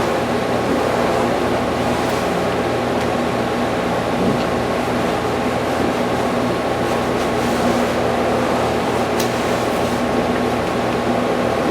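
Steady mechanical drone of running machinery, with a constant low hum under an even rushing noise. A couple of faint ticks come through in the second half.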